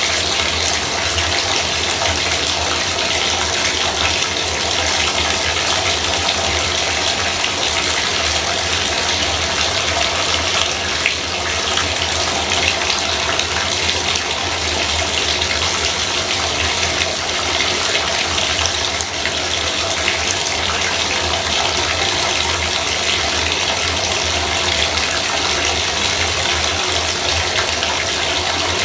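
Bathtub faucet running full, water pouring steadily into the tub with an even rushing hiss and a low hum underneath.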